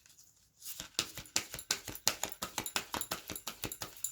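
A rapid, irregular series of light clicks and taps, starting about a second in and going on steadily.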